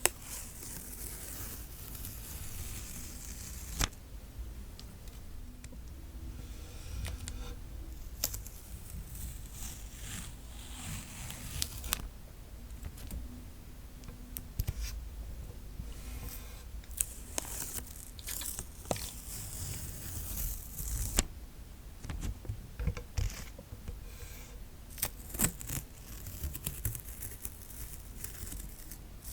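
Adhesive tape being pulled off the roll and peeled, in crackling, tearing stretches of a few seconds each, with sharp clicks in between.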